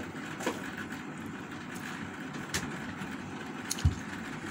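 Soft chewing and mouth sounds of eating rice by hand, with a few faint clicks, over a steady background rumble. A short low thump about four seconds in.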